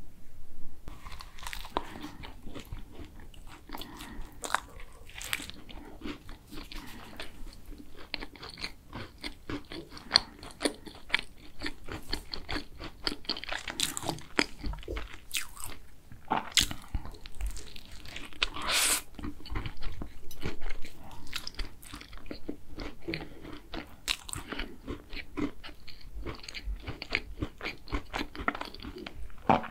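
Close-miked biting and chewing of a green tea and chocolate tart: the crisp pastry shell crunches in many small crackling clicks, with a few louder bites.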